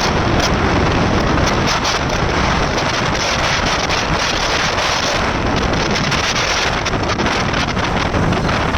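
Loud, steady wind rush buffeting the microphone on a moving motorcycle, drowning out any engine sound.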